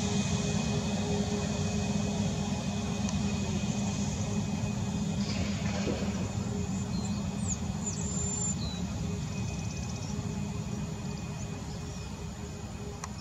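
Boeing 737 MAX 8's CFM LEAP-1B jet engines running steadily: an even rumble and hiss with constant high whine tones, easing slightly toward the end.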